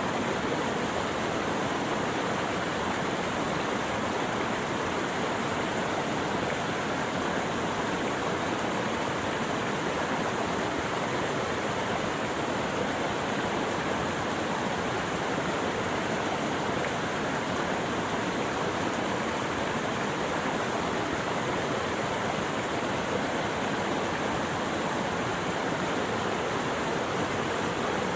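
Water rushing steadily, an even, unbroken hiss.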